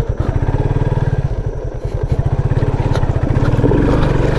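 Motorcycle engine running as the bike is ridden, with a fast, even exhaust beat that gets louder about halfway through as the engine picks up.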